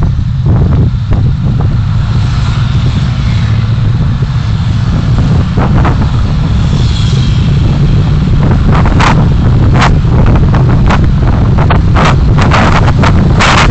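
Steady low rumble of a car driving, heard through a dashcam, with wind noise on the microphone. About halfway through a run of sharp clicks and knocks begins, coming faster near the end.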